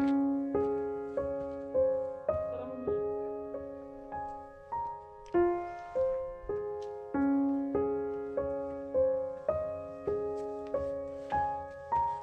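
Background piano music: a slow melody of single struck notes, about two a second, each fading away over held lower notes.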